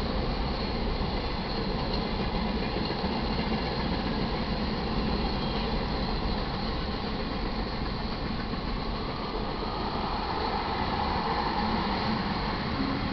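Freight train cars rolling past: a steady rumble and rattle of steel wheels on the rails, with no pauses.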